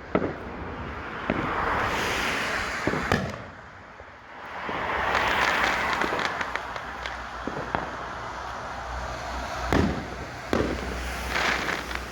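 Fireworks going off: scattered sharp bangs, with swells of crackling hiss about two seconds in and again from about five to seven seconds.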